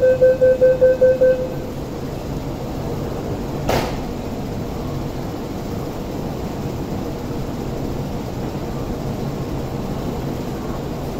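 Steady low hum of an MTR SP1900 electric train standing at the platform with its doors open. A rapid electronic beeping, about five beeps a second, stops about a second and a half in, and a short sharp knock comes about four seconds in.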